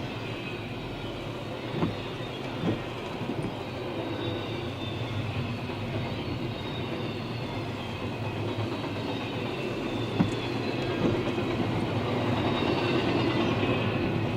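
CSX freight train rolling past, a steady rumble of wheels on rail with a few single clacks, growing slowly louder near the end.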